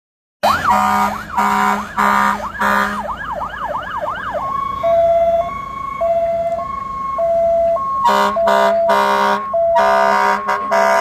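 Emergency vehicle siren starting suddenly with four short horn blasts, then a fast rising-and-falling yelp, then switching to a high-low two-tone that alternates steadily. More horn blasts sound over the two-tone near the end.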